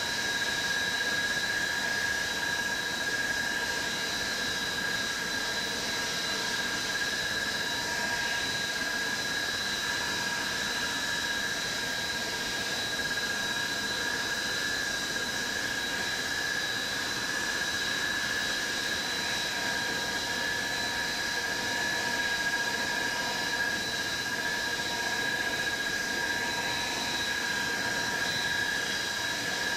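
Avro Vulcan B2's Bristol Olympus turbojet engines running at a steady setting on a ground run: a steady high whine over an even rush of jet noise.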